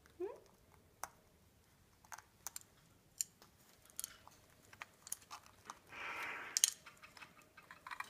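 Cape parrot chewing and biting with its beak: scattered sharp clicks and crunches, with a short gliding squeak at the start and a brief rasping noise about six seconds in.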